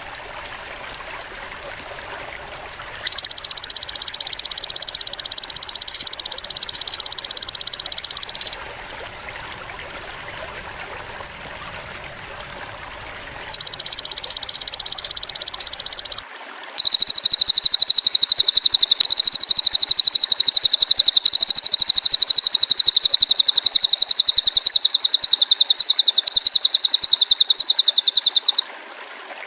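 Masteran recording of cililin and belalang emas calls: loud, fast, even high-pitched trills. A trill runs about five seconds and stops, a shorter one follows later, then a longer, brighter trill runs about twelve seconds before cutting off. A faint steady background sits under them.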